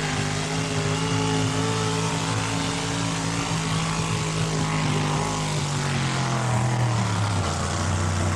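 Four-wheel-drive pulling truck's engine running flat out at high revs under heavy load as it drags the weight-transfer sled down the track, its pitch sagging a little in the second half as the load builds.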